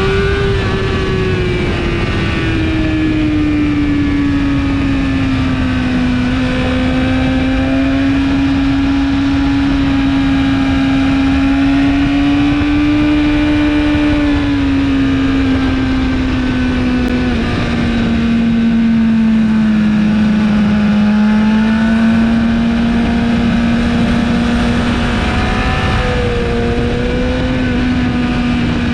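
BMW S1000RR's inline-four engine, fitted with an Akrapovic exhaust, running hard at high revs on track, its pitch drifting slowly down and back up with no sharp gear-change jumps, under heavy wind rush.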